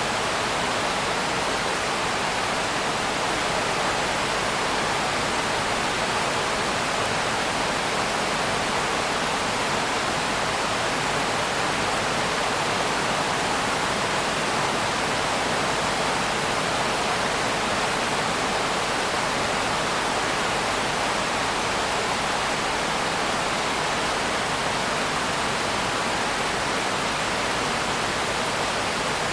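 Steady heavy rain, one dense even hiss with no single drops, thunder or other sounds standing out.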